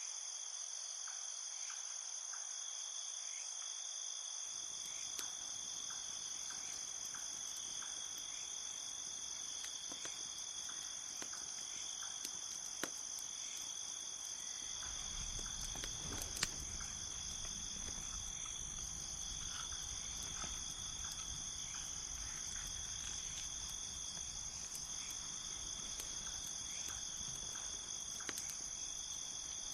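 A steady, high chorus of crickets, with scattered sharp crackles and a few louder pops from a wood campfire. A low rumble joins about halfway through.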